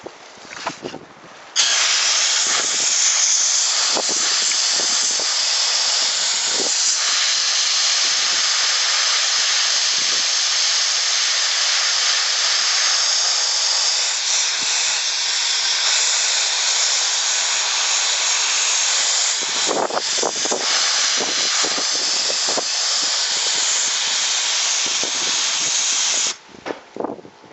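Central Pneumatic gravity-feed sandblasting gun blasting: a loud, steady hiss of compressed air and grit. It starts suddenly about a second and a half in and cuts off shortly before the end.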